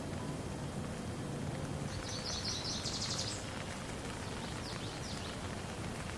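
Steady rain falling, with a bird giving a quick run of high chirps that ends in a fast trill about two seconds in, and a few fainter calls near five seconds.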